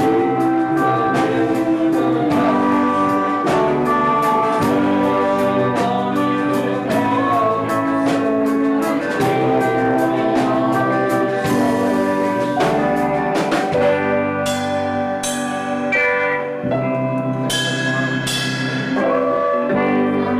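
Live band playing an instrumental passage with a steady beat. In the last several seconds it changes to separate accented stabs, each one ringing out.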